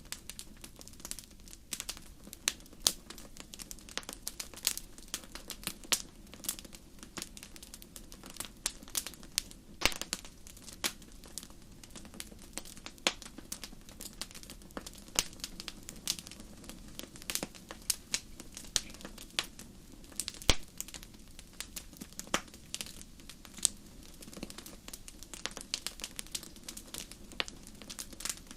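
Wood fire crackling in a fireplace: a steady stream of irregular sharp pops and snaps over a low, steady rumble of the flames.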